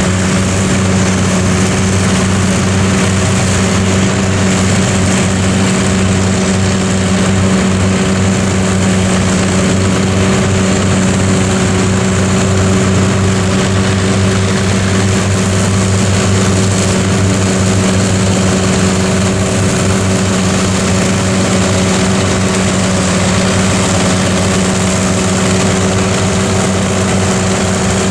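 Massey Ferguson tractor's diesel engine running steadily at a constant pitch while driving a forage harvester cutting silage, with a steady high hiss over the engine note.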